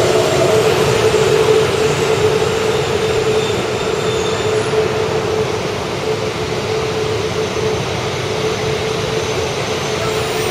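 E4 series Shinkansen train pulling into the station: steady running rumble with a held whine, easing slightly in loudness as it slows.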